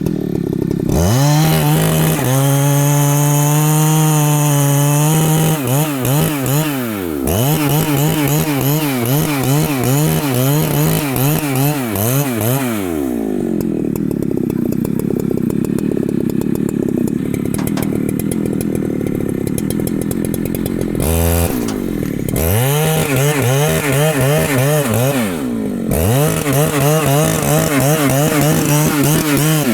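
Two-stroke Husqvarna chainsaw sawing into rain tree wood at full throttle, its pitch wavering under load. About halfway through it drops to idle for several seconds, then is revved back up into the cut.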